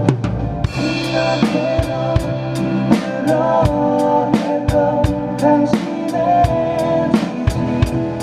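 Drum kit played along to a worship-song backing track, with kick, snare and cymbal strokes in a steady beat and a cymbal crash ringing out about a second in.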